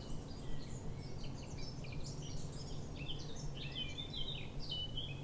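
Birds singing: a continuous run of quick chirps and short whistled notes, over a steady low background hum.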